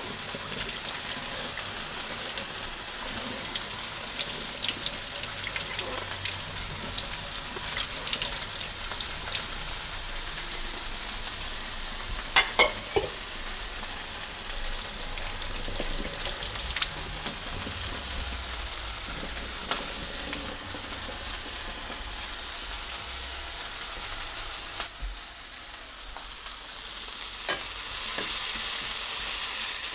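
Fajita filling sizzling in a hot frying pan, stirred with a utensil that clicks and scrapes against the pan now and then, with two sharp knocks about twelve seconds in. The sizzle dips briefly, then grows louder near the end.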